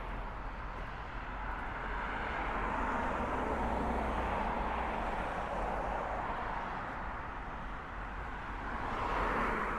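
Road traffic on a busy street: a steady wash of tyre and engine noise from passing cars, swelling as vehicles go by around the middle and again near the end.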